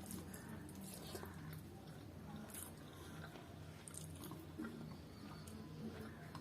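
Someone chewing a mouthful of rice and chicken curry, with scattered soft clicks of eating, over a faint low steady hum.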